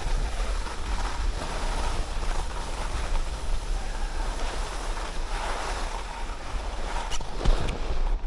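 Wind rushing over the microphone and skis hissing over snow on a downhill ski run, with one brief knock about seven and a half seconds in.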